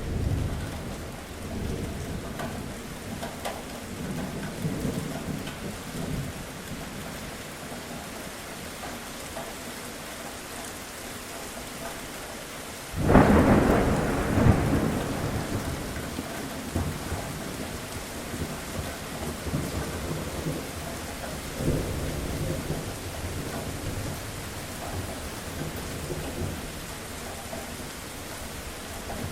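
Steady heavy rain with low rumbling thunder; about halfway through, a sudden loud thunderclap that rolls away over a few seconds, followed later by a softer rumble.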